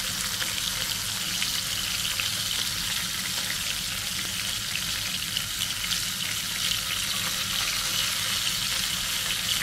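Prawns and minced garlic shallow-frying in hot oil in a nonstick pan: a steady sizzle with many small crackling pops.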